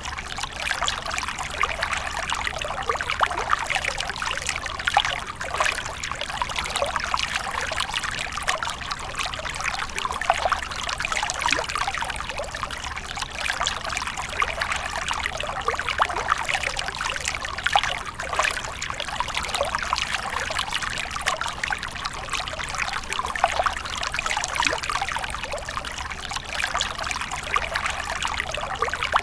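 Water splashing and trickling continuously, a steady run of many small splashes with no pauses.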